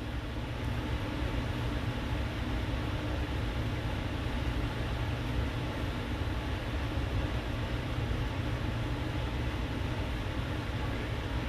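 Steady background hum and hiss of room noise, even throughout with no distinct events.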